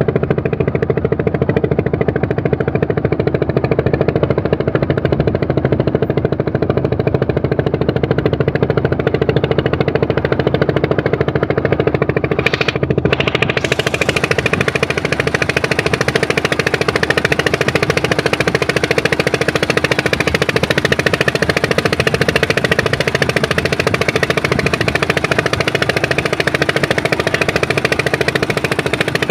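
A boat engine running steadily with a low, even drone. About thirteen seconds in, the hiss above it drops out for a moment and then comes back stronger.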